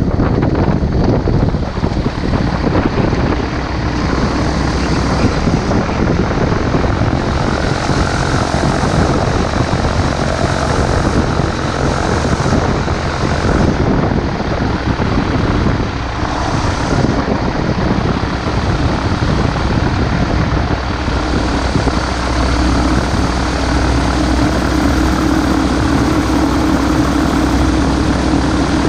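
A microlight aircraft's propeller engine drones continuously. A steadier engine note comes in about two-thirds of the way through.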